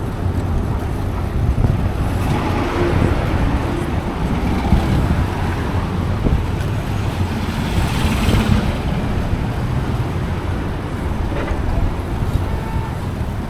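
City street traffic noise heard from a bicycle on the move, with a steady low rumble of wind on the microphone. A louder hissing swell rises and fades about eight seconds in, like a vehicle passing close by.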